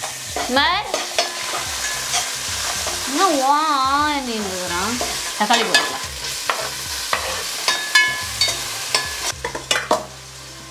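Onions, green chillies and ginger-garlic paste sizzling in oil in an aluminium pot, stirred with a steel ladle that scrapes and clicks against the pot. Chopped tomato is scraped in from a wooden board partway through. Near the end the sizzle gives way to a quieter steady hum.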